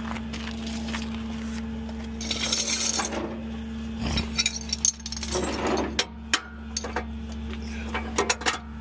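Sharp metal clinks and rattles, bunched about four to six seconds in and again near the end, over a steady engine idle.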